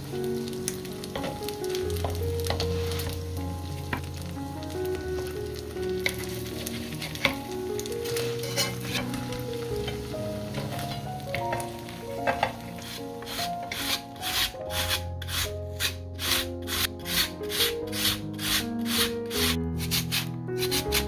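Shredded potato hash brown sizzling in oil on a cast-iron griddle as it is rolled and pressed with a wooden spatula, over light background music. From about two-thirds of the way in, a regular scraping about twice a second: potato being pushed over a julienne slicer.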